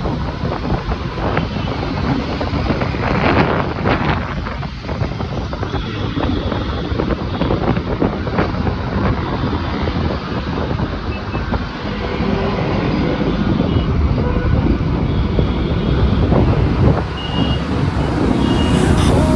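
Motorcycle riding in traffic: engines running with wind buffeting the microphone, and a few short high beeps.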